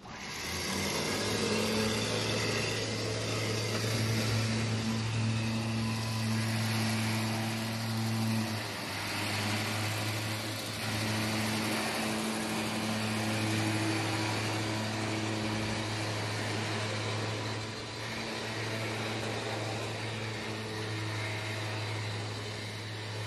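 A vehicle engine idling steadily, an even low hum that drops a little in level about three quarters of the way through.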